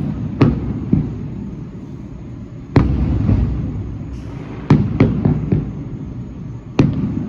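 Fireworks shells bursting in an irregular string of sharp bangs, each trailing off in a low rumble. The strongest bang comes near the middle, followed by a quick cluster of four.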